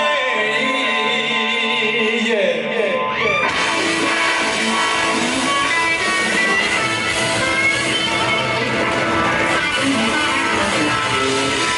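Live blues-rock band playing, led by electric guitar with bent and sliding notes. About three and a half seconds in, the full band with drums and cymbals comes in and plays on.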